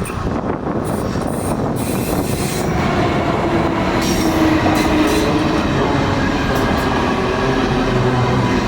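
A train running on the rails: a steady rumble of wheels and running gear, growing louder about three seconds in as a whine of several steady tones comes in.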